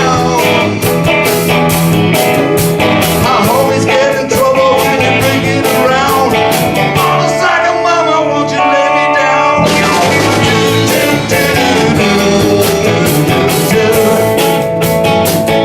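Live rock band playing, with guitar, drums and singing. A little past halfway the drums and cymbals drop out for about two seconds under held notes, then the full band comes back in.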